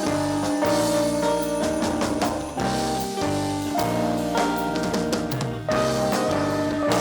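Live band playing an instrumental passage with drum kit, bass and sustained chords, without singing.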